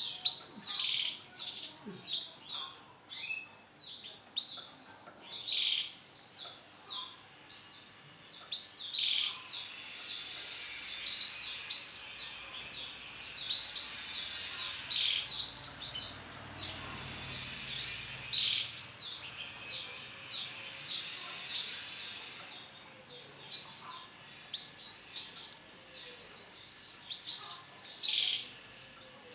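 Male canary singing a long, continuous song of rapid chirps and trills.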